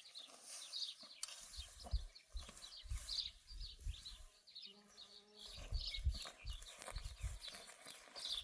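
Outdoor animal sounds: many short high chirps throughout, with a faint drawn-out call, like a distant bleat, about five seconds in, and scattered low thumps.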